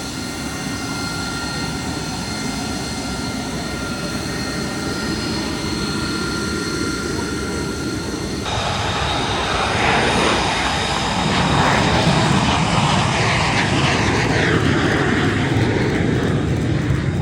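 Fixed-wing aircraft engine noise: a steady whine with held tones, then, after an abrupt cut about eight seconds in, a louder, rougher engine sound that swells and stays loud.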